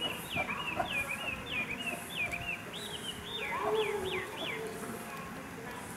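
A bird calling in a rapid series of high notes, each sliding downward, three or four a second, stopping after about four and a half seconds.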